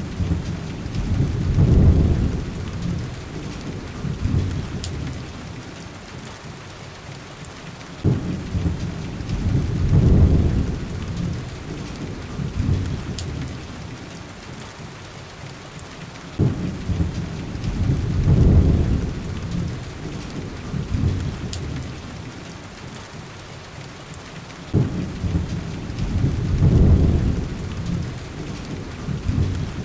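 Steady heavy rain with four rolls of thunder about eight seconds apart. Each roll starts with a sharp crack, swells into a deep rumble and fades over several seconds.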